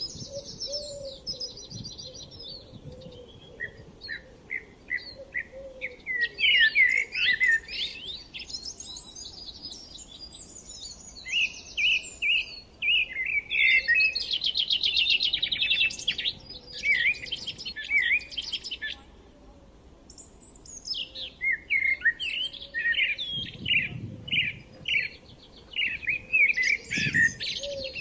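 Forest songbirds chirping and singing, several voices overlapping in phrases of quick chirps and fast trills, with brief lulls between.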